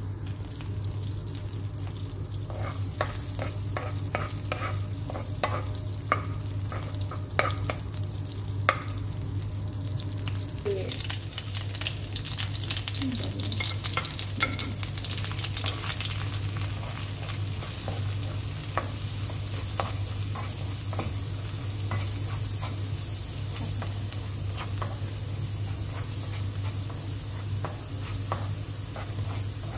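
Butter sizzling in a hot nonstick wok, with sharp crackling pops over the first several seconds. About 11 seconds in, minced garlic goes into the butter and the sizzle turns brighter and hissier. A spatula then stirs and scrapes the garlic around the pan.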